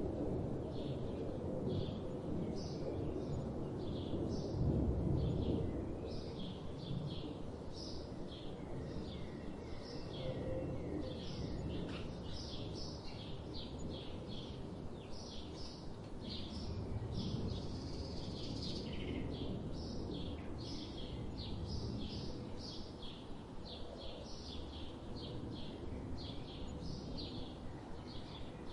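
Songbirds calling in many short, rapid chirps over a steady low rush of flowing river water.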